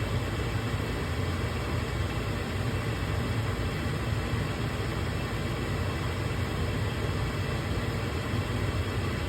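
Gas furnace draft inducer motor running with a steady hum and whoosh while the hot surface igniter heats up, before the gas valve opens.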